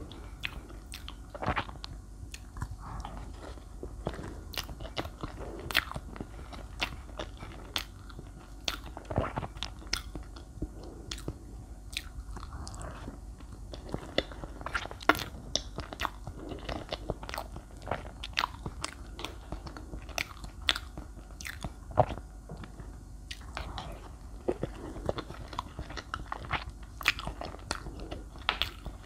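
Close-miked eating: biting and chewing of a milk-soaked cake with a hard chocolate shell, with many irregular sharp clicks and crunches.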